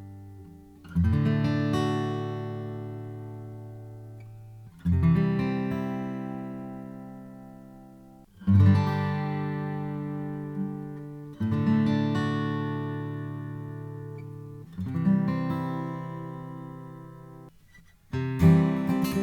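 Steel-string slope-shoulder acoustic guitar: five single strummed chords, each left to ring and fade, about every three and a half seconds, then quicker strumming near the end.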